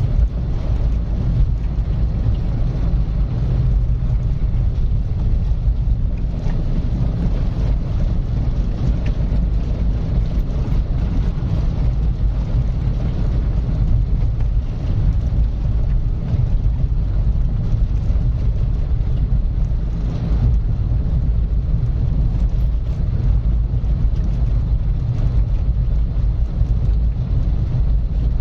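Car driving at a steady speed: a constant low rumble of road and engine noise with a faint hiss of tyres on tarmac.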